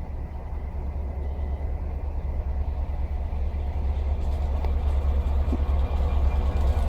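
Diesel locomotive running light, the deep drone of its EMD 710 V12 engine steadily growing louder as it approaches.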